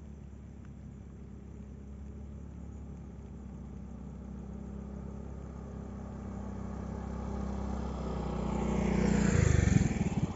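A motor vehicle approaching along the road with a steady engine hum, growing louder over several seconds and passing close by near the end.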